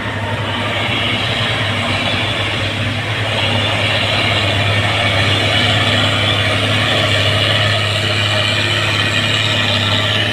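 Heavy truck's diesel engine running steadily with a strong low hum, growing slightly louder over the first few seconds.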